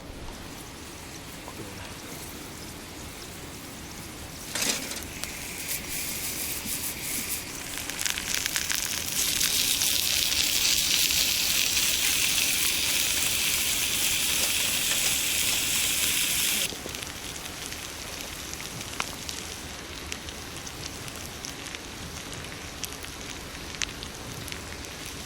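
Food frying over a wood fire: a sizzle swells after a sharp knock about a quarter of the way in, runs loud for several seconds and cuts off suddenly about two-thirds through, with the fire crackling throughout.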